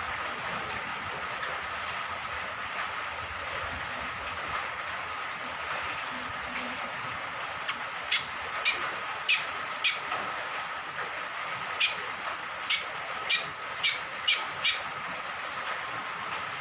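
Steady rain noise, then about halfway through a cucak kombok (kecial kombok) honeyeater gives a series of short, sharp, loud calls, four and then six in quick succession.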